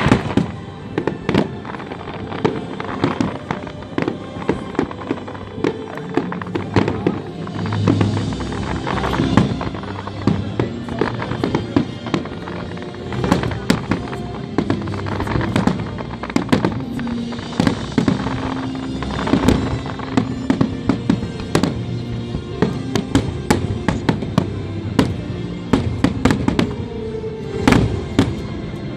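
Fireworks display: a rapid run of cracks and bangs, thickening from about halfway, over music playing along with the show.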